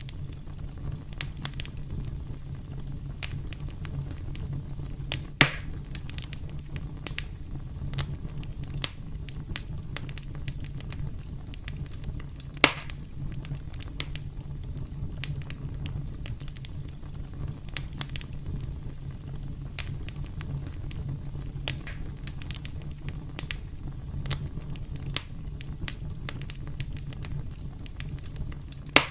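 Campfire crackling: wood burning with a steady low rumble and frequent irregular pops and snaps, two of them louder, about five and twelve seconds in.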